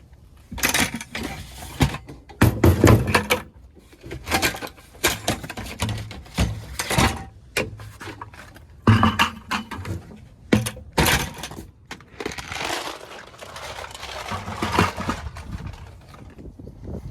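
Irregular clattering, rattling and knocks of hard objects being handled, loudest about two to three seconds in and again around nine to eleven seconds.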